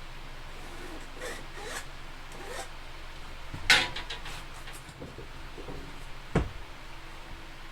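Light scraping and rustling handling noises over a steady hiss, with a sharp click a little past halfway, a few smaller clicks after it, and a short dull thump near the end.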